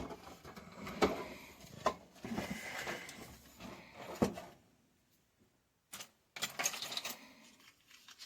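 Tools and parts handled on a TV repair bench: a few light clicks and knocks over rustling, with a short silent gap about five seconds in.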